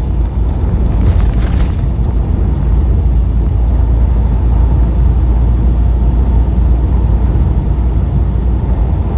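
Steady low rumble in the cab of a moving semi-truck: engine and road noise mixed with strong wind buffeting, and a brief hiss about a second in.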